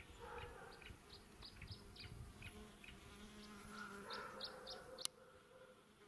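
Faint outdoor ambience of scattered short, high chirps from small birds, with a brief low buzz like a passing fly around the middle and a single sharp click about five seconds in.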